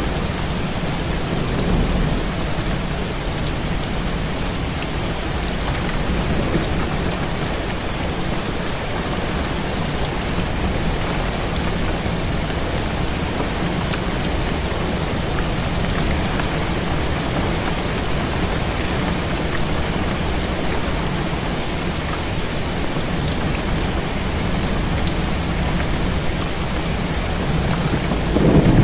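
Heavy rain falling steadily against a window pane, with wind and a few low rumbles of thunder now and then.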